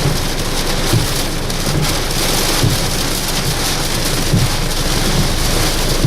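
Wind-driven heavy rain of a tropical storm: a steady, dense hiss of rain and wind with no let-up.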